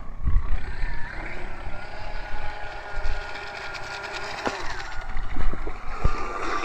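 Electric motor of a radio-controlled three-hull boat, running on model-airplane electrics, whining at part throttle. Its pitch rises and falls as the throttle changes, with a few sharp knocks near the end.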